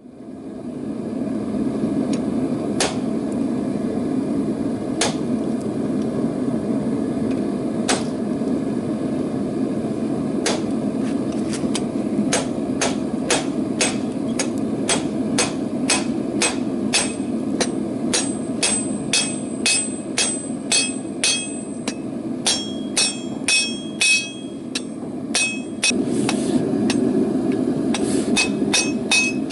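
Blacksmith's hammer striking hot rebar on an anvil: a few widely spaced blows, then steady hammering at about two blows a second from a little before halfway, the later blows ringing. A steady rushing noise runs underneath.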